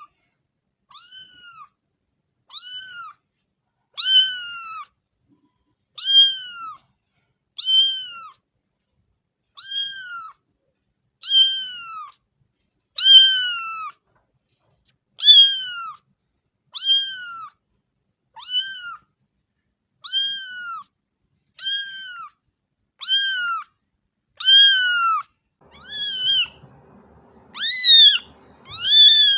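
A cat meowing over and over in high-pitched, arching meows, one about every one and a half seconds. Near the end the meows get louder and come closer together, over a faint low rumble of background noise.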